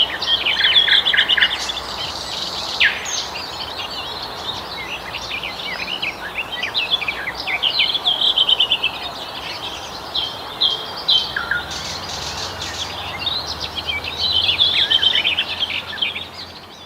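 Nightingales singing: rapid runs of repeated notes and trills, phrase after phrase, over a faint steady background hiss. The sound fades out at the very end.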